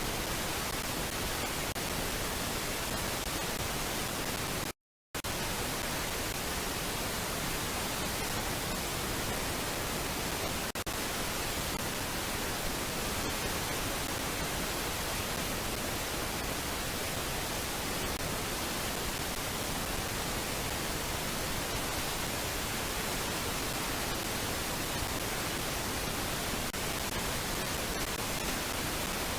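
Steady, even hiss spread across all pitches, with no bird calls standing out; it cuts to silence for a moment about five seconds in.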